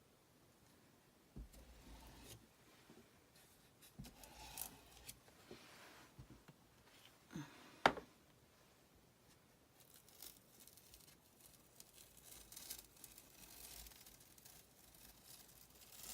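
Faint scraping, rustling and peeling sounds of hands working craft materials at a table, with one sharp click about eight seconds in.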